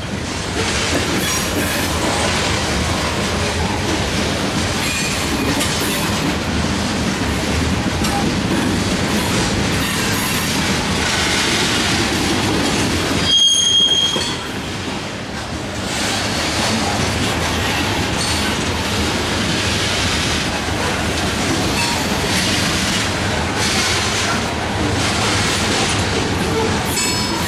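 Freight train's covered hopper cars rolling past at close range: a steady rumble and rattle of steel wheels on rail, with a brief high-pitched squeal about halfway through.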